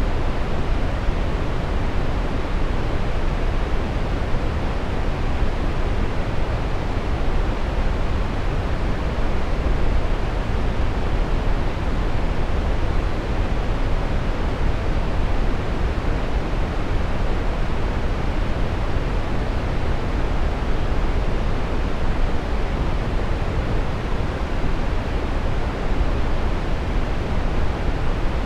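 Synthetic brown noise: a steady, unchanging rushing hiss weighted toward the deep end, with little high treble.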